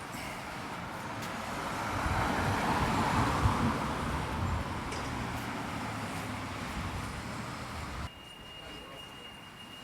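A road vehicle passing by: its engine and tyre noise swells to a peak about three seconds in and fades away, over a low traffic rumble. The sound drops off abruptly near the end.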